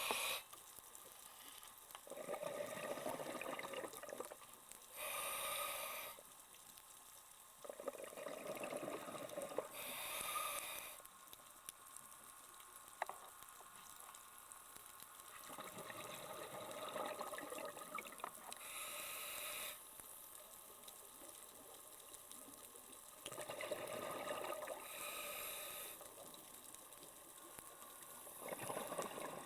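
A scuba diver breathing through a regulator underwater: a short hiss of inhaled air, then a longer burst of exhaled bubbles, repeating about four times, roughly one breath every six to eight seconds.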